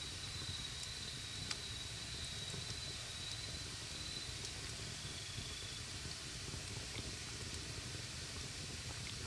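Campfire burning with a low rumble of flames and a few sharp, scattered wood crackles, one louder pop about a second and a half in. A thin, steady high whine runs alongside and fades out a little past halfway.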